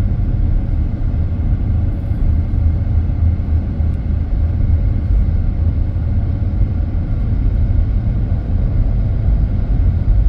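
Steady low rumble of a vehicle driving along a road, engine and tyre noise with no change in pace.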